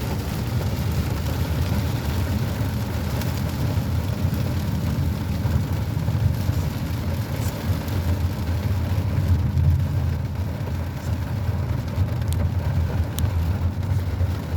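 Inside a moving car in heavy rain: a steady low rumble of the car driving, with the hiss of rain on the car.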